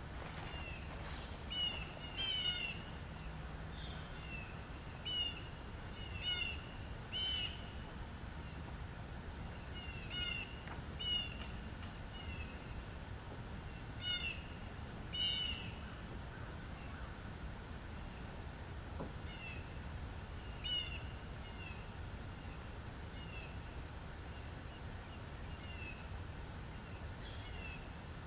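Birds calling outdoors: short, sharp calls repeated in clusters of two or three, frequent at first and sparser in the last third, over a steady low background rumble.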